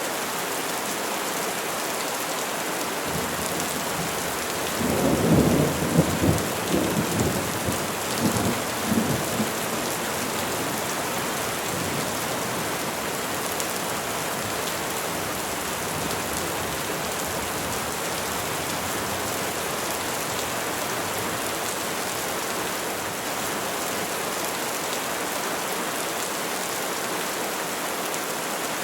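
Steady rain falling on trees, an even hiss. About five seconds in, a low rolling rumble of thunder swells and breaks in several surges for about five seconds, then fades back under the rain.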